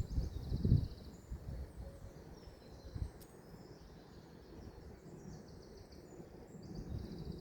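Small birds chirping in woodland, with a quick run of high notes at the start and again near the end. Under them is a low rumble, strongest in the first second.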